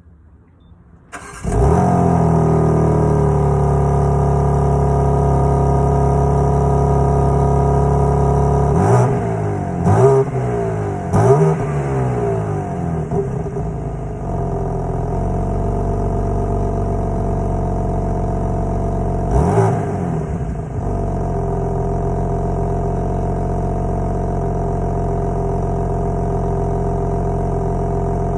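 S58 engine cranking and firing about a second in, settling into a fast idle whose pitch sags slightly as it steadies. It is revved in three quick blips about a third of the way through and once more later, each time dropping back to a steady idle.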